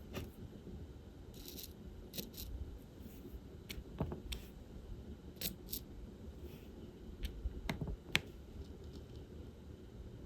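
Scattered light clicks and taps of small plastic pieces, with a few short scrapes: diamond-painting work, the pen picking resin drills from a plastic tray and pressing them onto the canvas.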